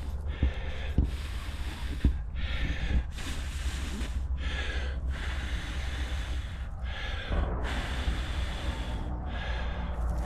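A person blowing repeatedly into a bird's-nest tinder bundle to coax a smouldering ember into flame. Long puffs of breath follow each other with short pauses between them, over a low wind rumble, with a few small clicks in the first couple of seconds.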